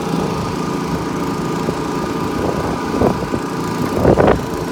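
A small engine running steadily, with a couple of short louder sounds about three and four seconds in.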